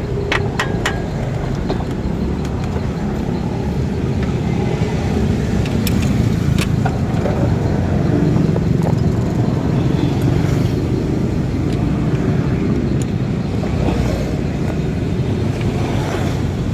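Car engine running steadily, with a few sharp metallic clicks early on and about six seconds in.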